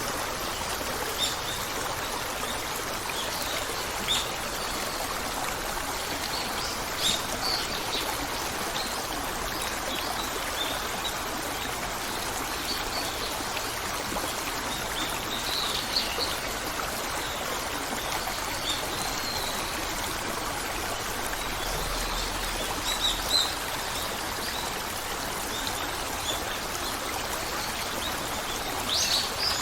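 A flowing stream running steadily, with birds chirping over it in short scattered calls, a few more at once near the end.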